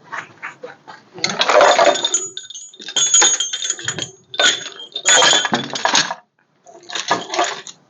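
Metal hardware being handled, clattering and clinking in four or five rough bursts with a bright metallic ring. A short break comes near the end.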